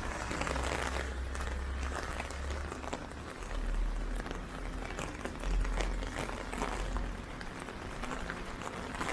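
Steady rain pattering on an umbrella, a dense spray of small drop ticks, with wind rumbling on the microphone in gusts.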